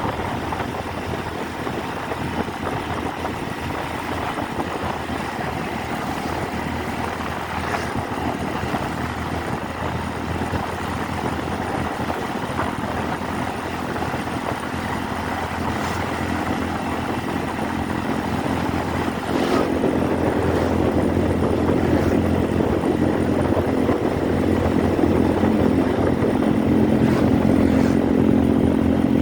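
Motorcycle engine running while riding along the road, a steady engine hum with road noise. It gets louder about two-thirds of the way through.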